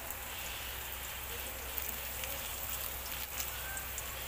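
Chopped garlic, onion and chili sizzling in hot oil in a wok: a steady frying hiss with small scattered crackles.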